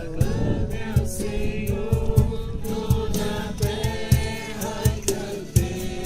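A group singing a Christian worship song together, with accompaniment that keeps a steady beat.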